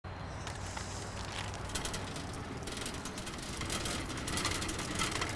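Rapid, irregular mechanical clicking over a steady low hum, starting abruptly.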